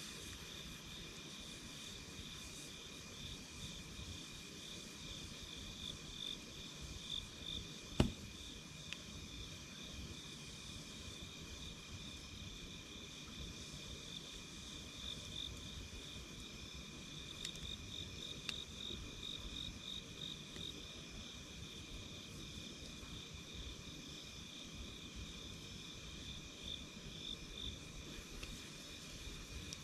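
A chorus of night insects chirring steadily at two high pitches, with the odd crackle from a wood campfire and one sharp pop about 8 seconds in.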